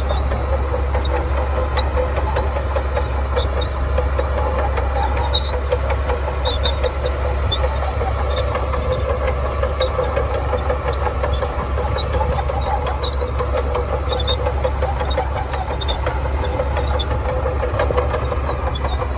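Heavy diesel engine of earthmoving machinery running steadily under load, with scattered faint clicks over it.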